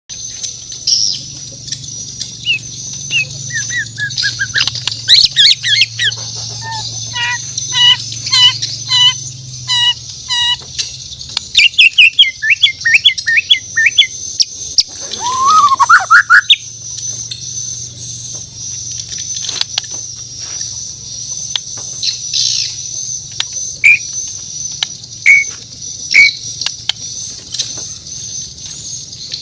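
Murai batu Borneo, the Bornean white-rumped shama, singing varied phrases: a string of evenly repeated notes, a rapid run, and a loud upward-sliding whistle about midway, then sparser short calls. Scattered light clicks and a steady high-pitched tone run underneath.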